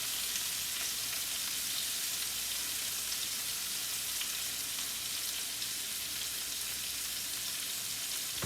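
Fish frying in butter and garlic in a pan, a steady sizzle with faint crackles.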